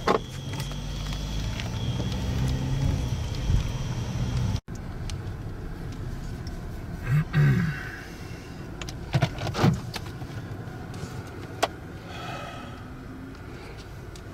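Car running with a steady low rumble. The sound cuts out suddenly about four and a half seconds in. A few short knocks and thumps follow over the steady noise.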